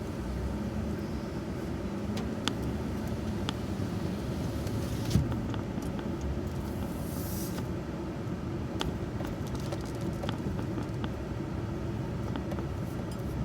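Pickup truck driving slowly, heard from inside the cab: a steady low engine and road rumble with a few light clicks and rattles.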